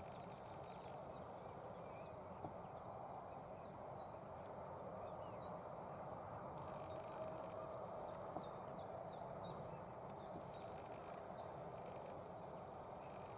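A small songbird calling in a series of short, high, downward-sweeping notes, about two a second, mostly in the second half, over a steady low background rumble.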